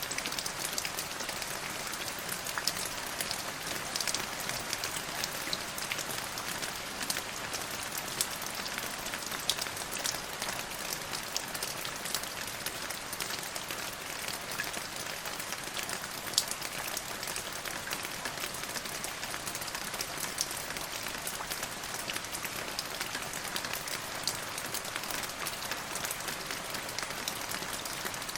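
Steady rain falling, an even hiss of drops with many sharper single drop ticks scattered through it.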